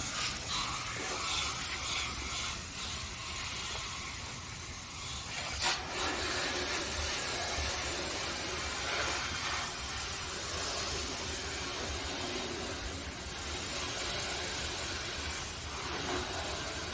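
Steady spray of water rinsing acid coil cleaner and loosened dirt off an air-conditioner condenser coil, with a single sharp click about six seconds in.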